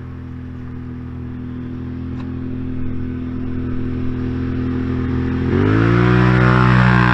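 Can-Am Outlander ATV with an aftermarket exhaust running steadily and slowly growing louder, then about five and a half seconds in the throttle opens and the engine revs up sharply and holds high under load.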